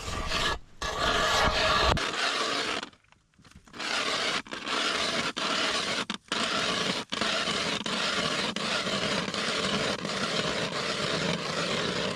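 Ice auger boring a hole through solid lake ice about 8 to 9 inches thick, its cutting blades grinding and scraping steadily. It stops briefly about three seconds in, then carries on.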